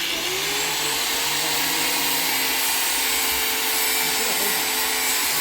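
An electric power tool switched on and spinning up to speed, then running steadily with a high, even whine and a loud hiss.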